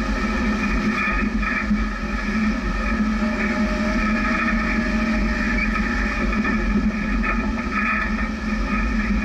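Jeep engine running steadily at low speed, about 8 to 11 mph, as it drives along a dirt trail.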